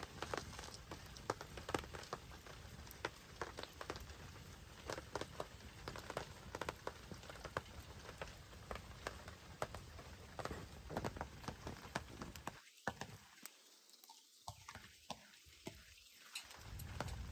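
Rain falling with a wood fire crackling: a steady hiss with many sharp crackles and drops. About thirteen seconds in, the deep part of the sound drops away and it turns thinner and quieter for a few seconds before filling back in.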